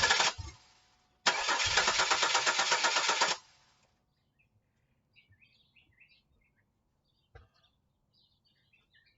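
Starter cranking the 2000 Camaro's 3.8 V6 with an even, rapid pulse: one crank ending just after the start, then a second of about two seconds that stops without the engine catching, even with starting spray in the intake. The owner takes this for a failed fuel pump. Faint bird chirps and a single short knock follow.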